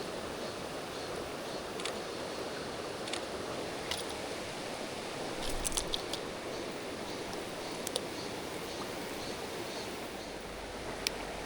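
Mountain stream water rushing steadily, with scattered sharp clicks over it: single ticks now and then and a quick run of several clicks about halfway through.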